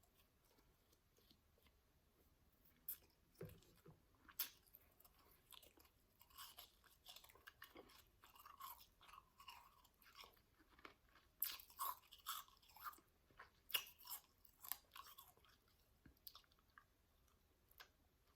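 A person biting and chewing powdery ice close to the microphone: irregular soft crunches that start about three seconds in, come thickest in the second half, then die away near the end.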